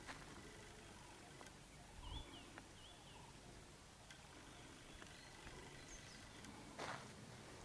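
Faint open-air ambience with two short whistled bird notes about two seconds in, and a brief click near the end.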